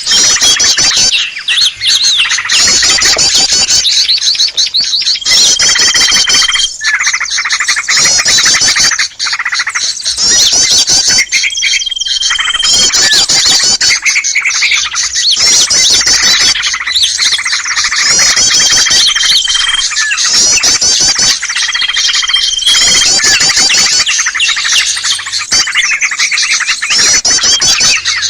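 Bird-luring recording of many small birds calling at once: a loud, dense chatter of chirps and twitters. A short, steady whistle recurs four times over it.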